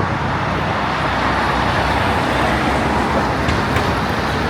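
Road traffic noise, with a vehicle passing close: a steady rush that swells through the middle and eases near the end.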